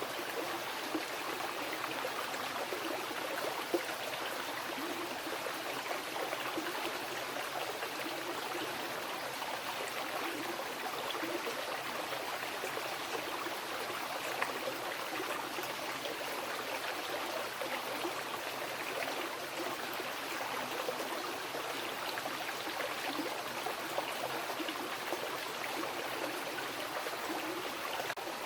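Mountain river flowing over rocks: a steady rushing and babbling, with small splashes now and then.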